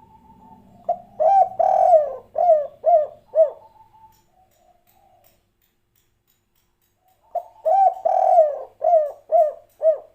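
Spotted dove (tekukur, derkuku) cooing in the 'kuk 3' song style: two phrases about six seconds apart. Each phrase is a short opening note followed by a run of about five coos, the second longest.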